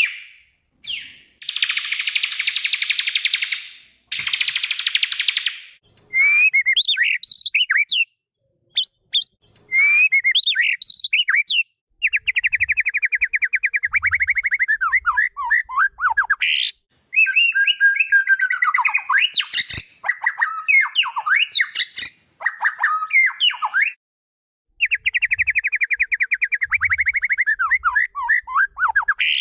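White-rumped shama (murai batu) singing: bursts of very fast, rattling trills alternating with quick whistled phrases that glide up and down, broken by short pauses.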